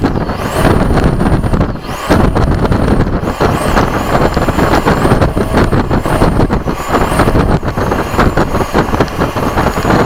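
70mm electric ducted fan of an RC F-16 jet run up in repeated throttle bursts: a loud rush of air with a high whine that climbs, holds at full power and falls back about half a dozen times.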